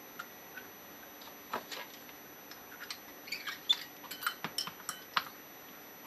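Small metal parts and tools of a TUSA scuba regulator first stage clicking and clinking as it is taken apart by hand: a scatter of light taps that grows busier about halfway through, with the sharpest click a little past the middle.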